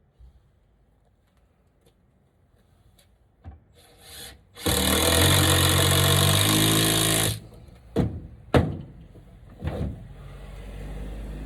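Power drill running into wood for nearly three seconds, its motor pitch shifting in steps, followed by a few sharp knocks.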